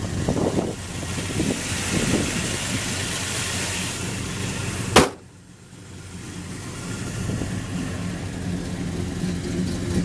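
1967 Plymouth Belvedere II's engine running steadily; about halfway there is one sharp knock, after which the sound drops suddenly and then slowly builds back up.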